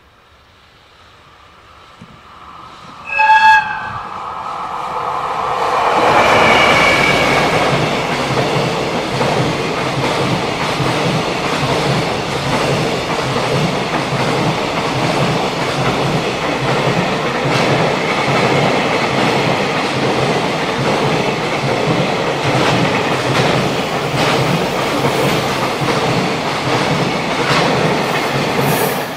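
JR Freight EF210 electric locomotive sounding one short horn blast about three seconds in, then the freight train running past close by, its container wagons' wheels rolling steadily on the rails before the sound drops away as the last wagons pass at the end.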